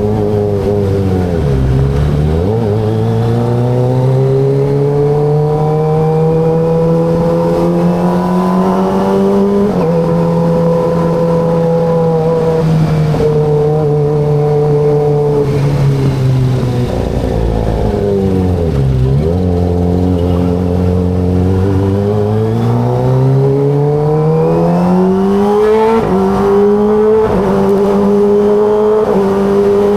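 Kawasaki ZX25RR's 249 cc inline-four engine under way: the revs fall off twice as the bike slows, then climb steadily again, with a sudden drop in pitch at each upshift, about ten seconds in and again near the end.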